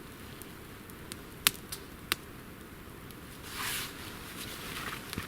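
Small campfire of damp wood crackling: a few sharp pops about a second and a half and two seconds in, and a short hiss a little after three and a half seconds in.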